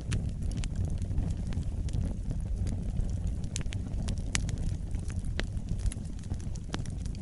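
Wood fire burning in a fireplace: a steady low rumble of flames with irregular sharp crackles and pops from the burning logs, a few louder pops in the middle.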